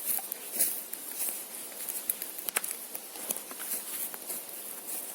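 Footsteps through forest undergrowth, with twigs and dry leaves crackling in irregular clicks.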